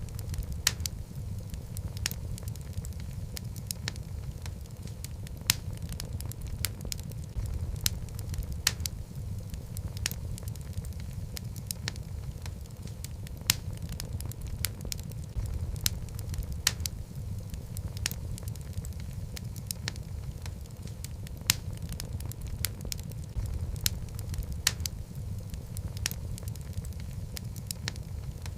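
Log fire burning: a steady low rumble of flames with frequent sharp, irregular crackles and pops from the burning wood.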